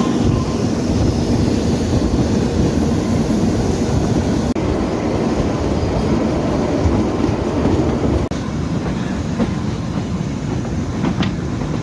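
Kalka–Shimla narrow-gauge toy train running, heard from on board: a steady rumble of wheels on the rails with some clickety-clack.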